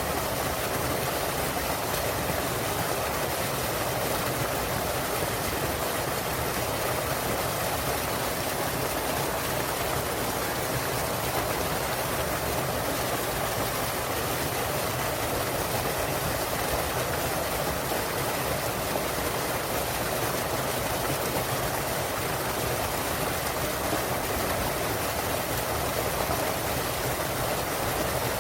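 Small waterfall in a mountain stream, water falling and rushing steadily.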